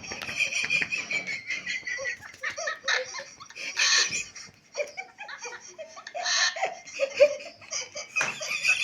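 Laughter in a string of short, high-pitched bursts with brief gaps between them.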